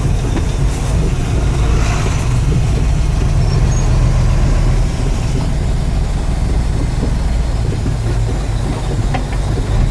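Mercedes-Benz SK 2435 truck's V8 diesel engine running on the road, a steady low drone. A brief hiss comes about two seconds in.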